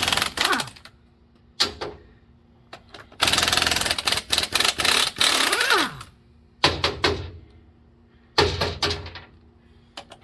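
Impact wrench hammering on truck lug nuts in five bursts, the longest about three seconds, several ending with a falling whine as the tool winds down. The long-seized lug nuts are breaking loose and coming off.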